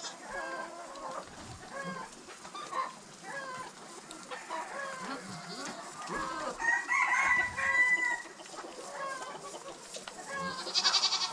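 A flock of chickens clucking in many short calls, with one longer drawn-out call of about a second and a half some seven seconds in.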